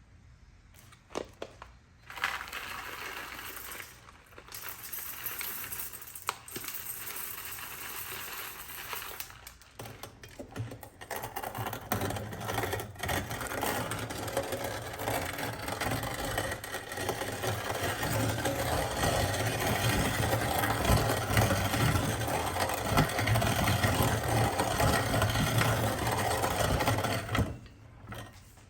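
Hand-cranked antique coffee grinder being turned, making a continuous gritty crunching and rattling. It starts a couple of seconds in, grows louder about halfway through, and stops shortly before the end.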